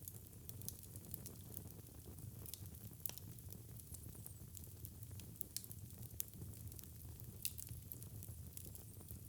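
Wood fire burning in a fireplace, crackling with frequent small irregular pops over a low steady rumble of flame.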